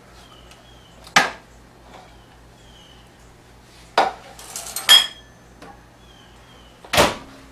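Dishes and utensils clinking and knocking: four sharp knocks, about one, four, five and seven seconds in, the one near five seconds followed by a brief ringing.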